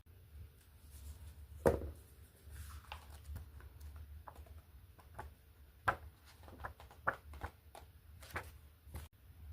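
Handling noise in a small room: scattered soft taps, knocks and rustles of things being picked up and set down, with one louder knock about two seconds in, over a low steady hum.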